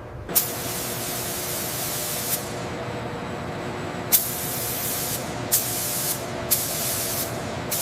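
Steady hiss of a pressurised spray, with a faint hum under it and seven sharp clicks at irregular intervals.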